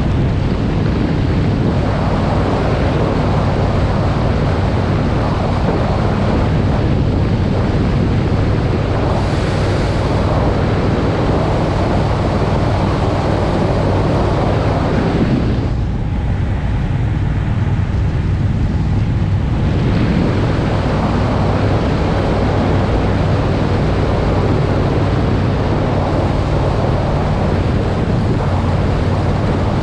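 Triumph Speed Twin's parallel-twin engine running steadily on the move, under heavy wind rushing over the camera microphone. The wind noise eases for a few seconds past the middle, then comes back.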